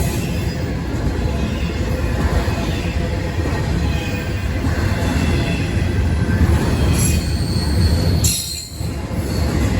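Norfolk Southern intermodal freight train rolling past: a steady heavy rumble of wheels on rail, with faint wheel squeal. The sound dips briefly a little over eight seconds in, then picks up again.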